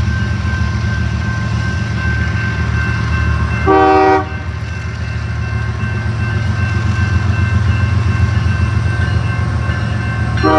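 Train passing with a steady low rumble. A short locomotive horn blast sounds about four seconds in, and another begins right at the end.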